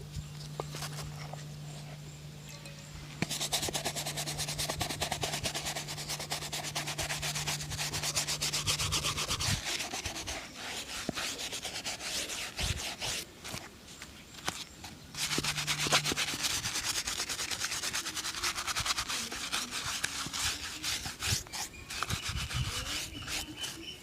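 Shoe-shine brush or buffing cloth rubbing rapidly back and forth over a leather shoe, in fast strokes starting about three seconds in, with a brief pause around the middle.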